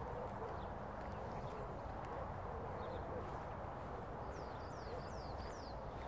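Outdoor field ambience: a steady low rush, with a bird calling four quick falling whistled notes in the second half.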